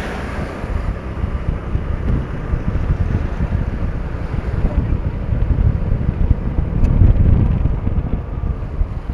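Wind buffeting the microphone of a moving motorcycle, a low steady rumble with engine and road noise underneath. It grows louder about seven seconds in.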